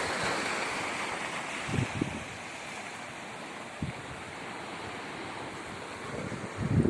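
Sea surf breaking and washing up the shore, the rush fading after a couple of seconds and building again with the next wave near the end. Wind on the microphone adds a few brief low thumps.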